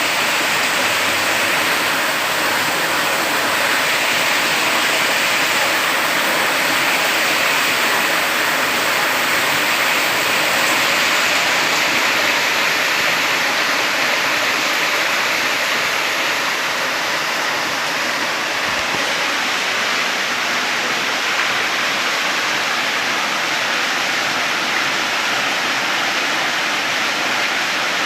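Loud, steady rush of flowing water, easing slightly about halfway through.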